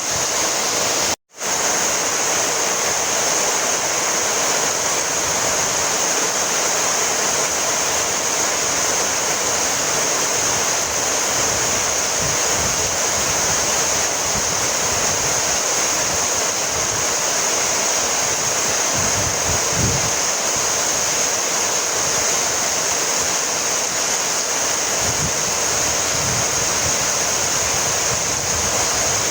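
Heavy rain falling steadily, an even hiss, with a momentary dropout to silence about a second in.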